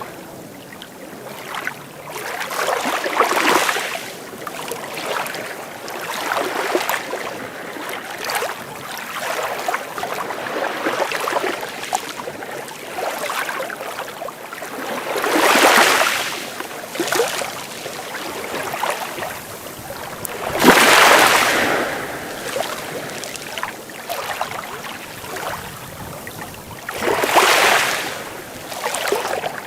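Sea waves breaking and washing on the shore, a steady wash with four louder breakers swelling and falling, the biggest about two-thirds of the way through.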